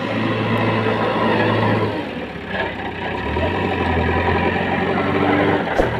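Heavy diesel engine of construction machinery running, its low note stepping down in pitch about three seconds in, with a sharp knock near the end.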